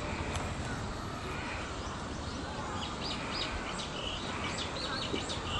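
Small birds chirping: a quick run of short, high chirps starts about halfway through, over a steady hum of outdoor background noise.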